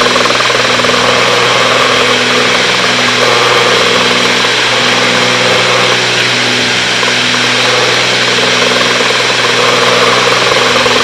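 Cabin drone of a Cessna 310's twin piston engines and propellers in the climb, heard through the intercom. The drone is steady with a pulsing beat about once a second. This is the vibration the pilot was listening for, which the owner traced to loose propeller spinners needing another shim.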